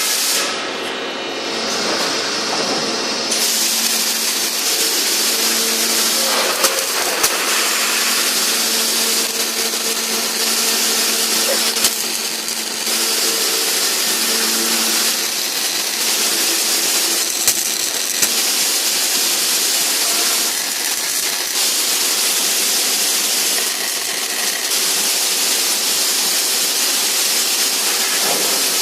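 Automatic scaffolding-pipe welding machine running: a steady hissing noise over a low hum, with a few sharp clicks.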